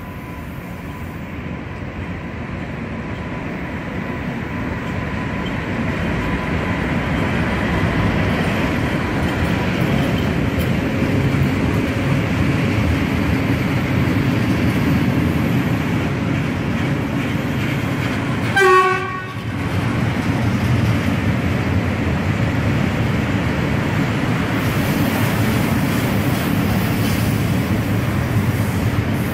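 Freight train of loaded open wagons running past on steel rails, a steady rumble of wheels that grows louder over the first several seconds. A short horn toot sounds about two-thirds of the way through.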